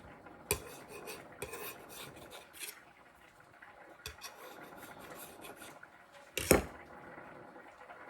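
Kitchen utensils scraping and clinking against a table and pot while dumpling dough is worked off the table, with a few sharp knocks and the loudest clank about six and a half seconds in.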